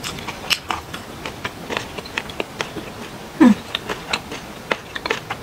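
Close-miked chewing: a run of irregular wet mouth clicks and smacks from someone eating. About three and a half seconds in, a short hummed sound falls in pitch.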